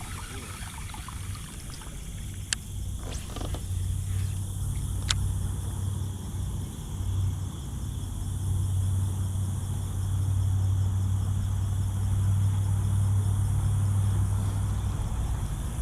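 Low, steady rumble of a vehicle engine that grows louder after several seconds, with two sharp ticks a few seconds in.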